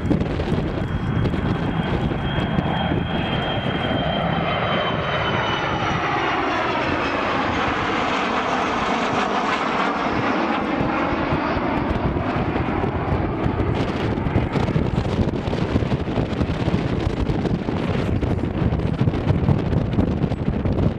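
An aircraft flying past in a display, its engine noise swelling and sweeping as it comes closest about halfway through. A high whine falls in pitch over the first few seconds as it passes.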